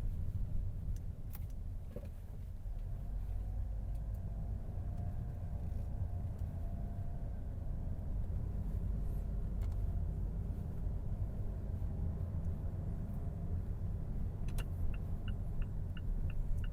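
Low, steady rumble of a car's engine and running gear, heard from inside the car as it is manoeuvred into a parking spot. A few clicks come early, and in the last couple of seconds a run of short, evenly spaced beeps sounds, about two a second.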